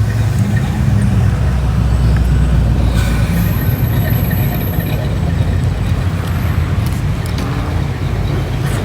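Car engines running with a deep, steady rumble as cars drive past in traffic.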